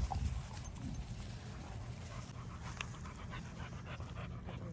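A dog panting after running.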